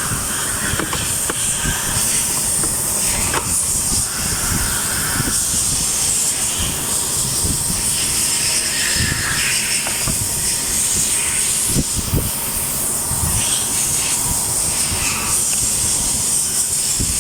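Steady hissing background noise with scattered light clicks and low knocks, as of hands working at a car's fuse box to pull a fuse.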